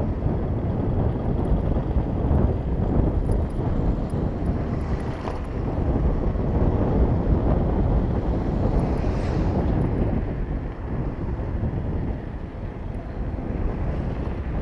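Wind buffeting a bicycle-mounted microphone while riding, over the steady rumble of surrounding motor traffic.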